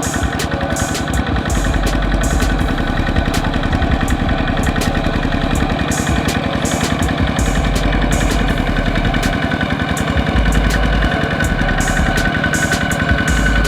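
Kubota RT 120 tractor's single-cylinder diesel engine running steadily with a fast, even knocking beat. A high whine grows stronger near the end.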